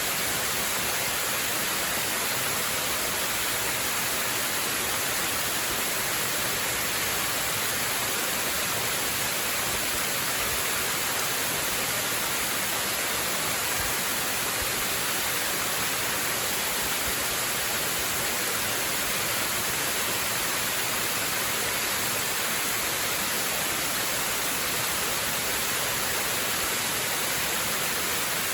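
Waterfall: a steady, unbroken rush of falling water, heavy in hiss with little low rumble.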